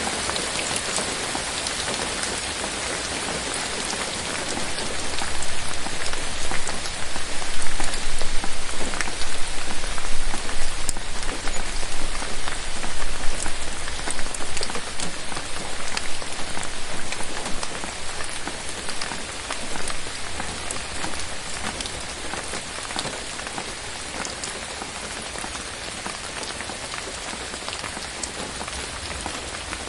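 Steady rain falling on forest foliage, a dense patter of drops that grows heavier for a stretch about five seconds in and eases again after about eighteen seconds.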